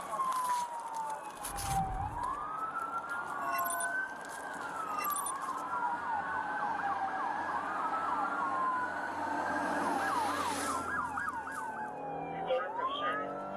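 Police car siren wailing in slow falling and rising sweeps, switching for a few seconds near the middle to a fast yelp. There is a short low thump about two seconds in.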